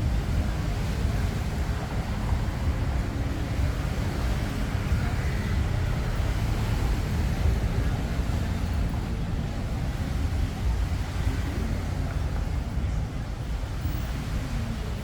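Road traffic on a busy street: a steady low rumble of passing vehicles with no distinct single event.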